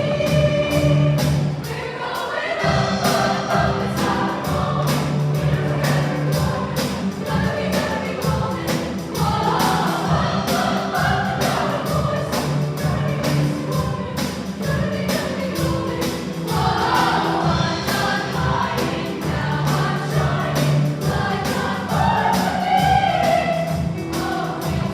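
A choir of voices singing a song over instrumental accompaniment with a steady beat.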